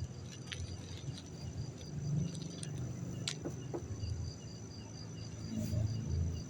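Crickets chirping steadily in a rapid, even pulse, with two short faint clicks about half a second and about three seconds in.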